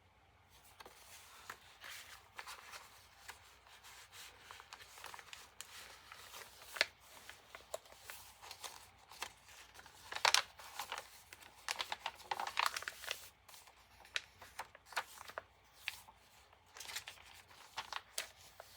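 Paper pages, postcards and tags of a handmade journal rustling and crinkling as they are handled and turned, in short irregular bursts with small taps; the loudest rustles come a little past halfway.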